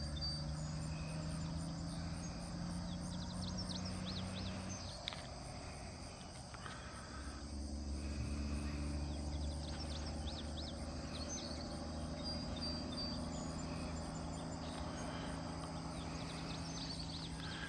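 Outdoor ambience: a steady low hum that dips about five seconds in and comes back a couple of seconds later, with scattered short high chirps over it.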